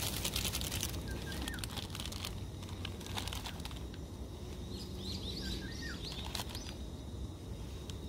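Wild birds calling and singing repeatedly: short hooked chirps and whistled notes, coming in small runs. A rustling crackle with clicks in the first second, from hands handling packaging.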